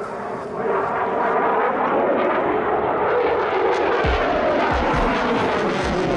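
Fighter jet engine noise, a steady loud rush, with a few low thumps in the second half.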